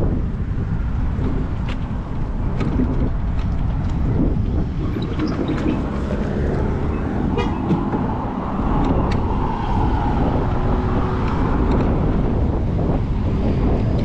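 Wind rumbling on the microphone over outdoor noise, with a vehicle passing by in the middle.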